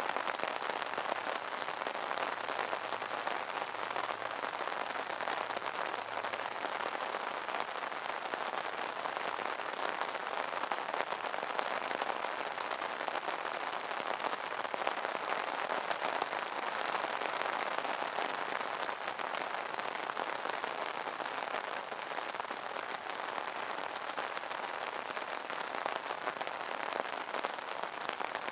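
Steady rain pattering on an umbrella canopy, a dense even patter of many small drop hits.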